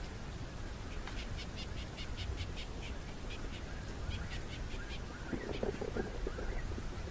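Birds calling: a quick run of short, high chirps, about six a second, for several seconds, then a brief cluster of lower calls near the end, over a steady low background hiss.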